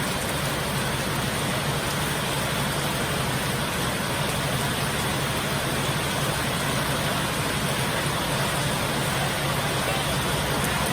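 Heavy rain pouring down steadily as a dense, even hiss, with a low steady rumble underneath from strong wind.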